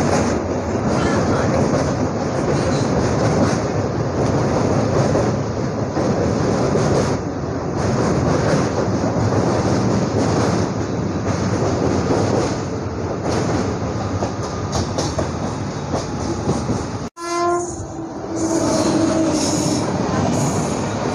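MEMU passenger train running over a steel truss river bridge, heard from an open window: a loud steady rumble and rattle of wheels on the bridge. After a sudden cut near the end, a train horn sounds over the running noise as the train runs beside another passenger train.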